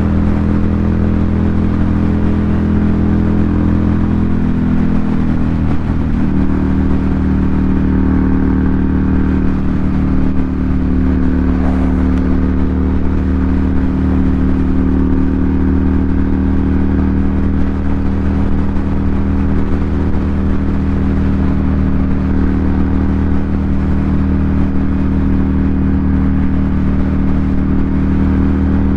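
2018 Ducati Monster 797's air-cooled L-twin engine through an SC Project aftermarket exhaust, running loud at a steady engine speed. The pitch shifts slightly about five seconds in, then holds even.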